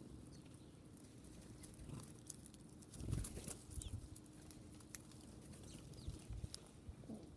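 Birds and squirrels feeding: faint scattered ticks and scratches with a few short, high bird chirps, and soft thumps about three seconds in and again near the end.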